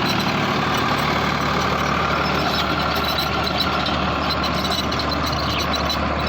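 Farmtrac 60 PowerMaxx T20 tractor's 55 HP diesel engine running steadily, with an 8-foot rotavator mounted behind it.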